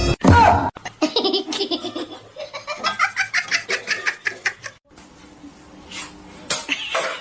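A short, loud cry falling in pitch, then a person laughing hard in rapid bursts for several seconds, fading to scattered laughs near the end.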